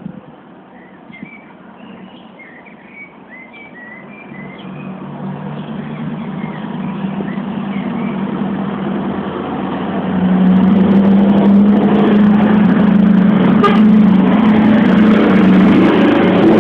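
Scania R 560 truck's V8 diesel engine running, its steady low drone growing louder over the first ten seconds and then staying loud. Birds chirp faintly in the first few seconds.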